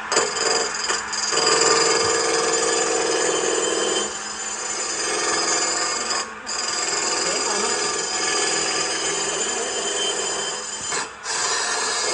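A power tool running against wood, sanding or cutting it steadily. The sound drops out briefly twice, about 6 and 11 seconds in.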